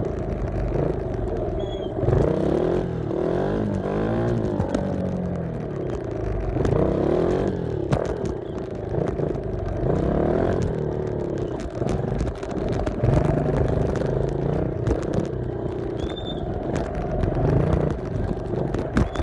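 Small off-road vehicle engine being ridden, revving up and easing off over and over, its pitch rising and falling with the throttle.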